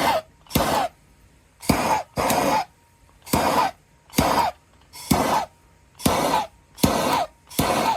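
Aerosol can of high-heat barbecue paint sprayed in short spurts, about one a second, coating the inside of a welded bike tube.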